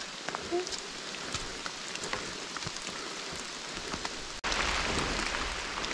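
Steady rain noise with scattered ticks of drops, recorded while riding a mountain bike along a wet, muddy trail. About four and a half seconds in the sound cuts out for an instant and comes back louder.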